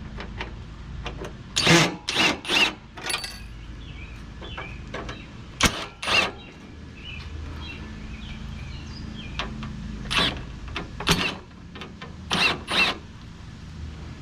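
Tools working on a window air conditioner as it is dismantled for scrap: about ten short, sharp metallic bursts, several in quick pairs, over a steady low hum.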